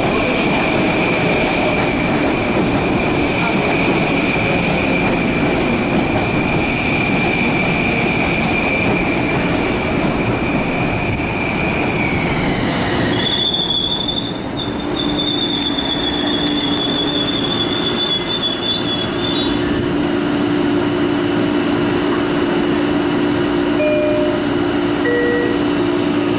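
Long Island Rail Road commuter train pulling into the station, with a high, steady brake and wheel squeal. About halfway through, the squeal drops in pitch and a higher squeal takes over for several seconds as the train slows to a stop. Near the end a steady low hum remains from the stopped train.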